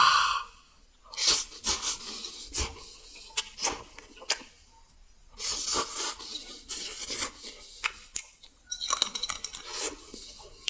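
Plastic food packaging being torn open and crinkled, in two long stretches of dense crackling and sharp clicks.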